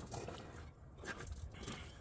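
1993 Ford Ranger's 3.0 V6 idling faintly with a cylinder misfiring, the low rumble uneven. A few light clicks and scrapes from hands working on the engine.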